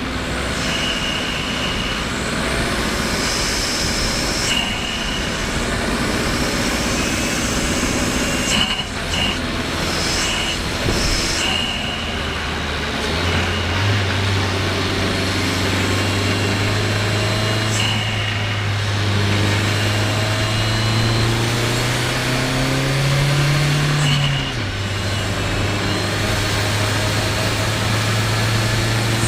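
Renault Kadjar's 1.2 TCe turbocharged four-cylinder petrol engine pulling uphill under load. Its steady note jumps up in pitch a little before halfway, climbs slowly, then drops suddenly about three-quarters of the way through, as with a gear change.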